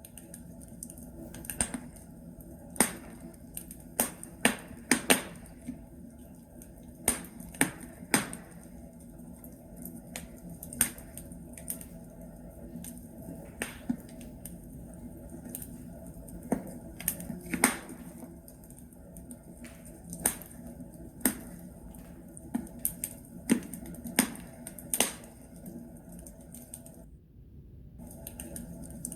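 Wood logs crackling in a fireplace: irregular sharp pops and snaps over a steady low rumble of the fire. The crackle briefly stops for about a second near the end.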